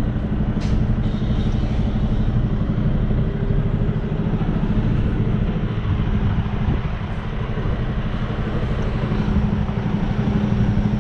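Semi truck's diesel engine running steadily at low speed, a constant low hum.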